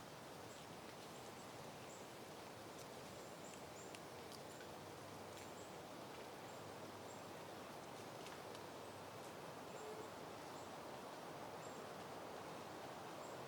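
Soft, steady wind rustling through peony foliage and blooms, with faint, very high chirps from a small creature at irregular intervals.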